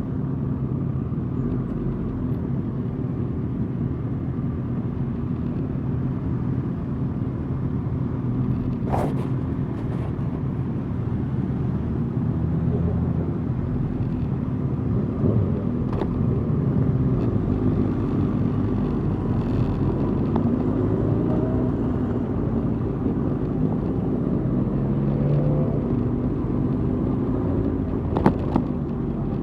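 Suzuki GSX-R 1000's inline-four engine running at low parade speed among other motorcycles, its pitch rising briefly a couple of times in the second half as it speeds up. A few sharp clicks.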